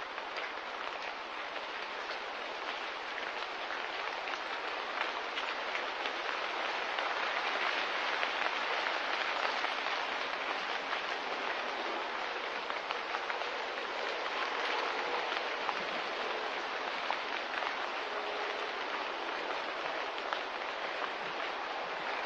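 Light rain falling: a steady hiss of rain with many small scattered drop ticks, growing a little louder partway through.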